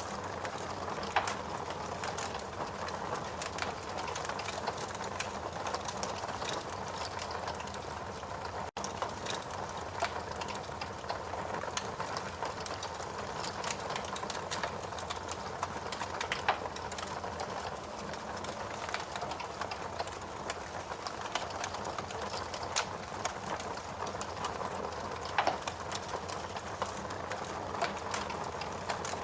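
Wood fire burning in a fireplace: a steady hiss of flames with constant small crackles and a few louder pops, one about a second in and others near the middle and end. The sound cuts out for an instant about nine seconds in.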